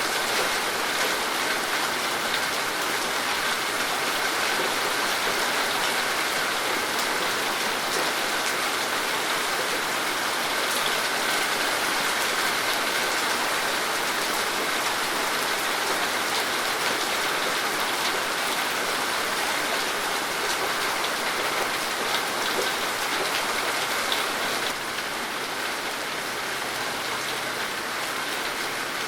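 Steady rain falling, an even hiss with many small drop taps. It turns a little quieter about 25 seconds in.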